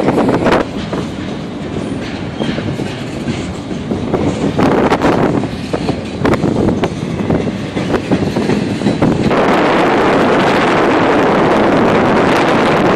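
Double-stack intermodal train of well cars rolling past, wheels clicking and knocking irregularly over the rail joints. About nine seconds in the sound turns into a steady, louder rush of noise as the cars pass close by.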